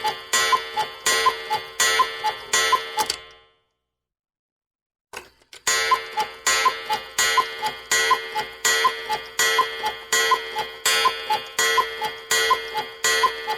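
Cuckoo clock ticking in an even tick-tock rhythm, about three ticks a second, each tick with a bright ring. The ticking stops about three seconds in. There is a short faint noise near five seconds, and the ticking resumes about six seconds in.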